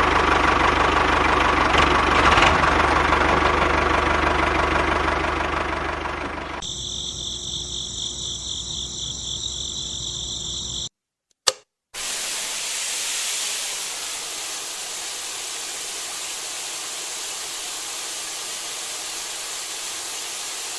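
A small motor running steadily; after a cut, a high whine for about four seconds, then a moment of silence with a single click, then a steady hiss.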